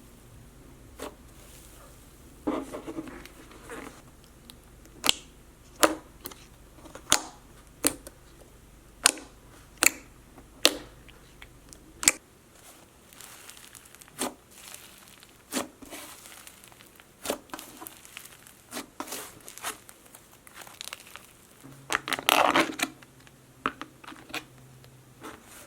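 Slime being handled and squished, giving a string of sharp clicks and pops, about one a second at first and then softer and more scattered, with crinkling stretches, the loudest a little before the end.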